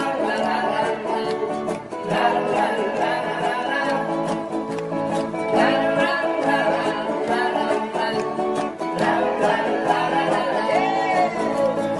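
Live song played on strummed acoustic guitars, the strumming steady and even, with a voice singing over it.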